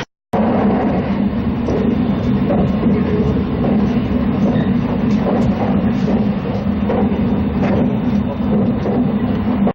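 Train running along the rails: a steady rumble with a low hum.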